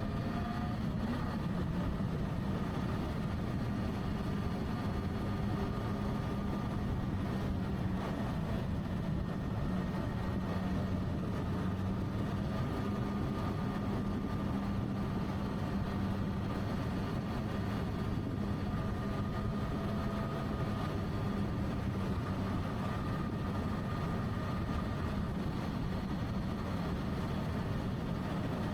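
Motorcycle engine running steadily at an even cruising speed, a constant hum over a steady rushing noise.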